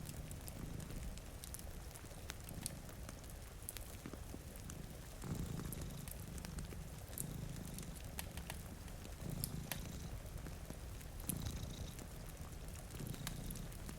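Domestic cat purring close up, in slow swells about every two seconds, stronger from about five seconds in. Sharp crackles of a wood fire and a steady hiss of rain run underneath.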